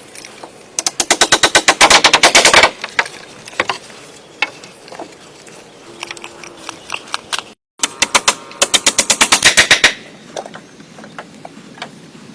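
Two bursts of rapid mechanical hammering, about a dozen evenly spaced strikes a second, each burst lasting about two seconds, with scattered single knocks in between.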